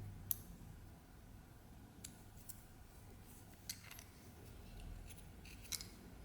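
About five light, sharp metallic clicks, like scissors snipping or a small blade being worked, spread unevenly over a quiet background.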